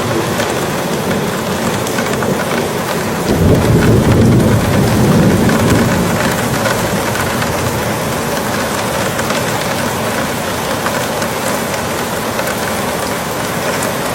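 Snowstorm outdoors: a steady hiss of wind and falling precipitation, with a low rumble that comes in suddenly about three seconds in and fades over the next few seconds.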